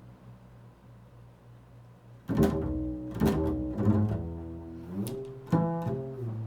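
Improvised solo music on a low-pitched string instrument: a low note dies away, then about two seconds in a run of plucked notes begins, each struck note ringing on.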